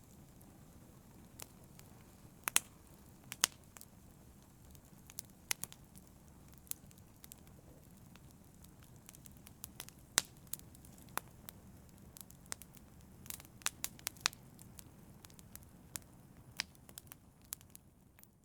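Wood fire in a fireplace crackling over a steady low rumble, with irregular sharp pops scattered throughout, a few of them much louder than the rest.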